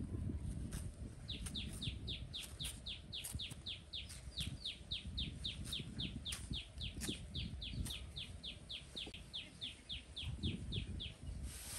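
A bird calling a long, even run of short, high, downward-sweeping notes, about four a second, starting about a second in and stopping just before the end. Under it, soft rustling and small knocks of hands and a knife working dry soil.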